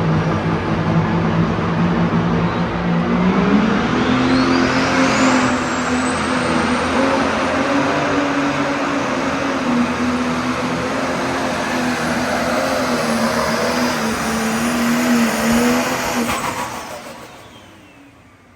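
Turbocharged diesel pulling-tractor engine running hard at high revs. About three seconds in its pitch steps up as it goes to full power, and a high turbo whine rises with it. It holds there, then fades out near the end.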